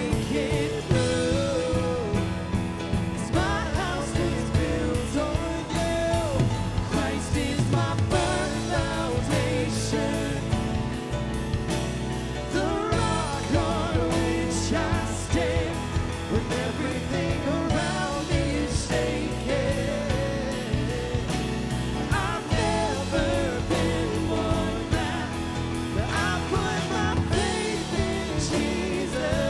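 Live worship band playing a rock-style song, with drum kit, guitar and singing over sustained chords and a steady drum beat.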